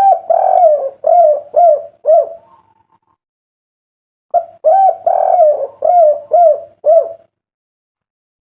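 Spotted dove (derkuku) cooing: two phrases about four seconds apart, each a drawn-out coo followed by about three short clipped coos, the 'kuk 3' ending.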